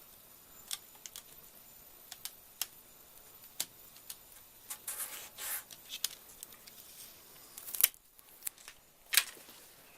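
Scattered light clicks and brief rustles of hands handling small steel tape-measure strips, double-sided tape and sandpaper, with two sharper clicks near the end.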